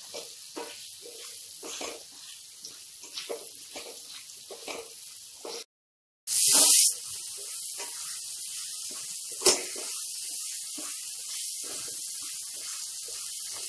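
Raw mango pieces sizzling in hot oil in a non-stick kadai while a spatula stirs them, with irregular scraping strokes against the pan. The sound drops out for a moment about six seconds in and returns as a louder, steady sizzle, with one sharp click a few seconds later.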